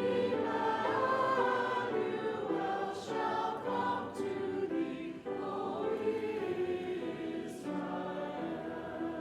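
Church choir singing in phrases, with short breaths between them.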